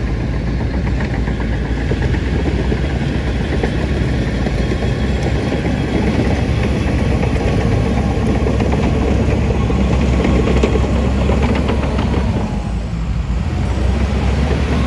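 Heavy diesel earthmoving machinery running steadily, with a light metallic clatter mixed in.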